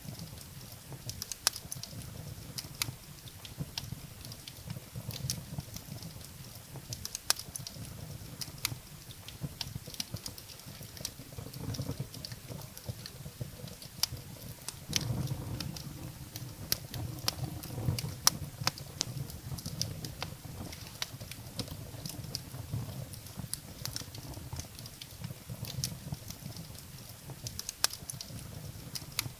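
Firewood burning in a fireplace: many irregular sharp crackles and pops over a low, steady rumble of the flames, with a louder pop a little past the middle.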